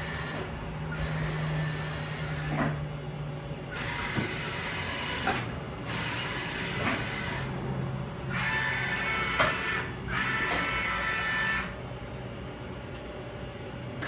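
A Fadal VMC6030HT CNC vertical mill jogging its axes: the axis drives whine through about six short traverse moves, each lasting one and a half to three seconds with brief pauses between them. A steady low hum from the machine runs underneath.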